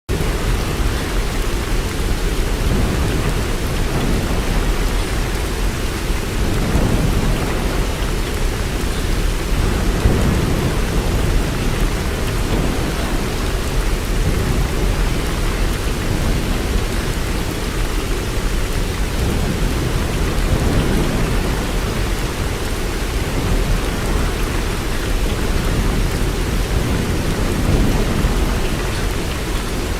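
Steady heavy rain, a dense even hiss, over a deep low rumble that swells and fades every few seconds.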